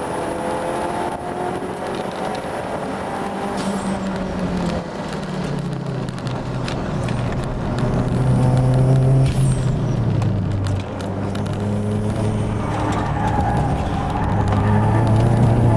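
Toyota Starlet Glanza's engine heard from inside the cabin while lapping a track, its revs falling and climbing with gear changes, with a sharp drop in pitch about eleven seconds in and harder, louder running after that.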